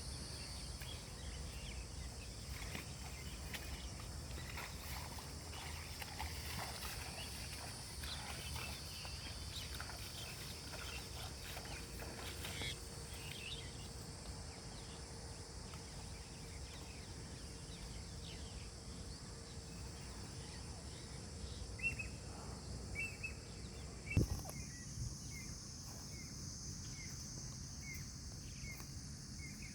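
Rural outdoor ambience: a steady high-pitched buzz over a low rumble, with scattered short chirps in the last third. A single sharp knock comes about three quarters of the way through.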